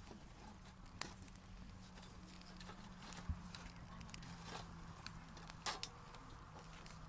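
Faint, scattered clicks and knocks: a sharp one about a second in, more spread through the middle, and a close pair near the end, over a low steady hum.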